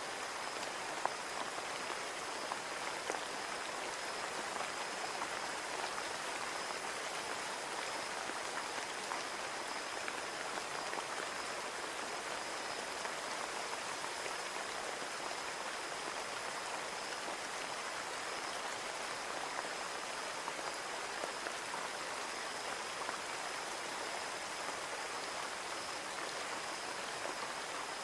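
Steady rain falling, with many small drops tapping a window pane, plus a faint steady high tone.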